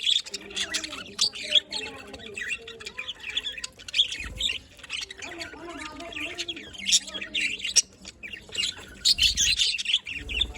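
A group of budgerigars chattering: many quick, overlapping high chirps and squawks with no pause, busiest near the end.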